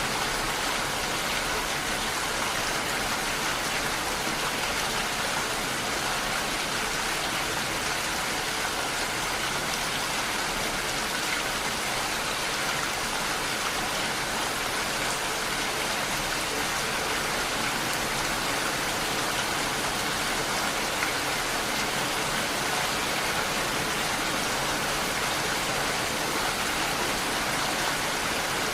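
Steady rain falling, an even hiss of many drops without thunder.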